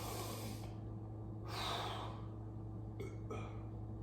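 Two breathy exhalations, one at the start and one about one and a half seconds in, over a steady low hum, then two light clicks about three seconds in.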